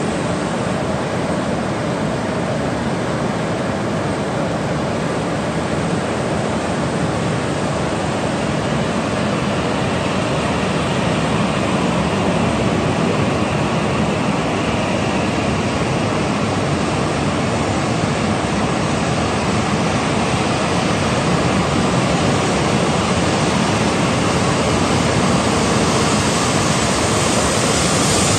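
E6 series Shinkansen train pulling out of a platform, a steady rushing noise from the passing cars that grows slowly louder and brighter as it gathers speed.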